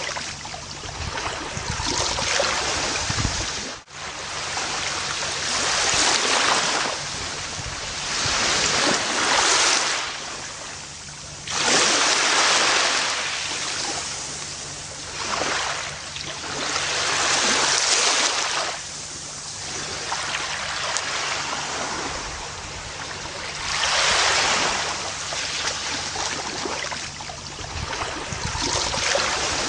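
Gentle ocean waves washing onto a beach, each surge swelling and then receding every few seconds. There is a brief dropout about four seconds in.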